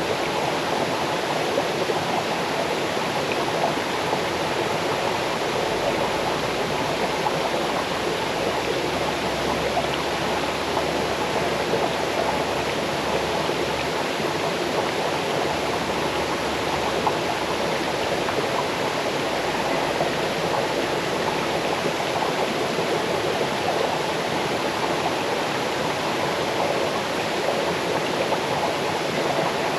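Small waterfall cascading over stones into a stream, a steady rushing and babbling of water.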